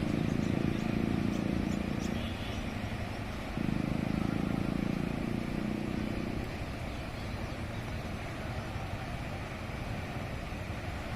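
Motor vehicle engines passing over a steady low rumble, loudest twice in the first half.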